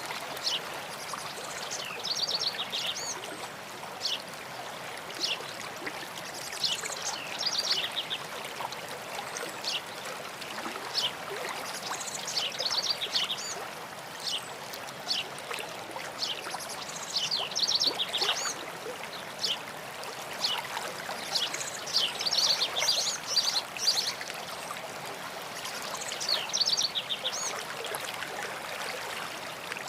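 A stream running steadily, with songbirds singing short phrases of quick repeated high notes every few seconds over the water.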